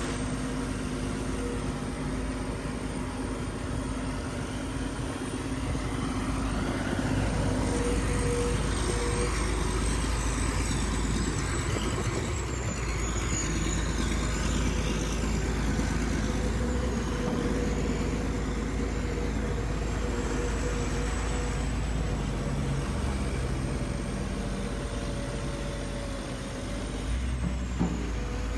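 Heavy construction machinery running: a steady engine noise with a thin high whine that dips in pitch a couple of times, and a short sharp knock near the end.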